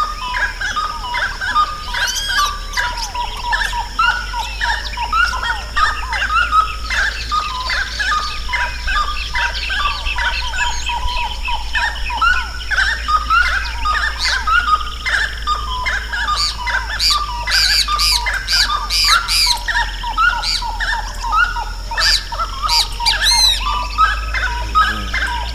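A dense chorus of many birds singing and calling at once: rapid, overlapping short notes, with high, thin whistles joining in more thickly in the second half. A steady low hum runs underneath.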